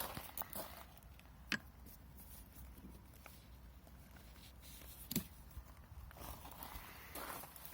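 Faint scattered clicks and knocks over a low background hiss, with two sharper clicks standing out about a second and a half in and about five seconds in.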